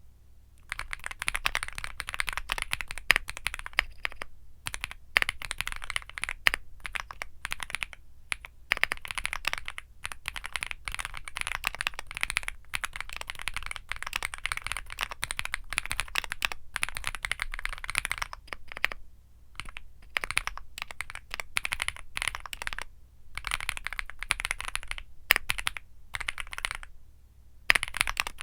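Womier SK75 mechanical keyboard with Womier Mint Blizzard switches being typed on quickly: dense runs of keystrokes starting about a second in, broken by a few short pauses.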